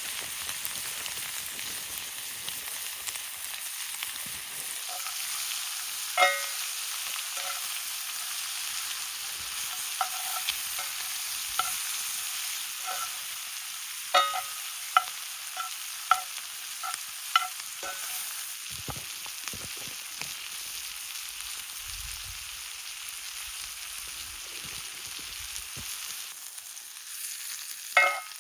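Potatoes, sausage, onions, peppers and mushrooms sizzling steadily in a cast iron skillet, with a metal utensil clinking against the pan as the food is stirred: one clink early, a run of clinks about halfway through, and more near the end.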